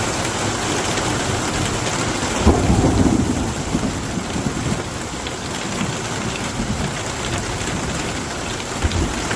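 Heavy rain pouring down steadily, with a rumble of thunder about two and a half seconds in.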